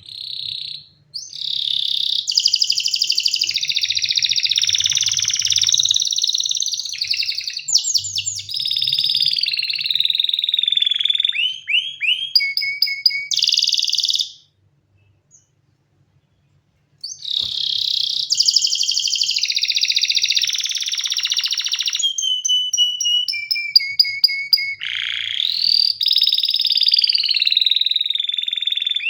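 Domestic canary singing: long rolling trills and tours, with runs of quick falling notes between them. The song breaks off for about two and a half seconds midway, then resumes.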